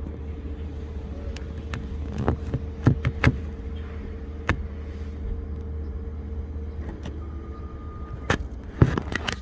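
A vehicle running with a steady low hum, with scattered sharp knocks and clunks and a single beep lasting about a second near the end.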